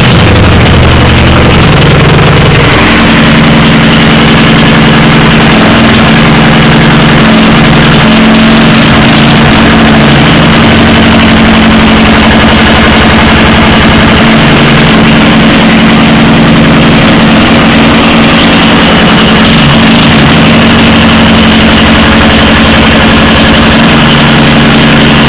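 Rebuilt 75cc Suffolk two-stroke engine running steadily and very loud close up, its speed shifting slightly now and then.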